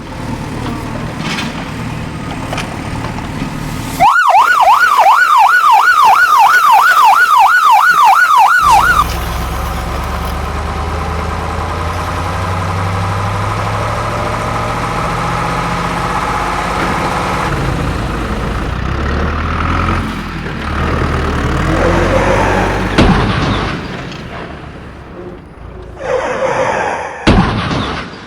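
A fast wailing siren, its pitch swinging up and down nearly three times a second for about five seconds, the loudest sound. Before and after it, a steady low engine-like rumble.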